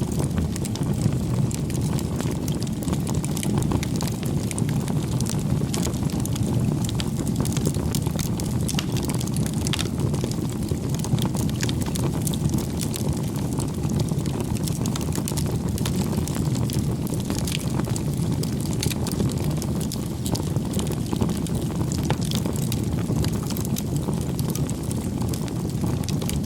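Wood fire burning: a steady low rumble of flames with frequent sharp crackles and pops throughout.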